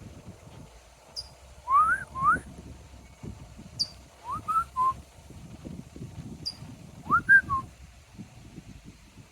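A small songbird giving short, sharp high chirps, three times, each answered about half a second later by a person whistling back with two quick rising notes. The whistled replies are the loudest sounds.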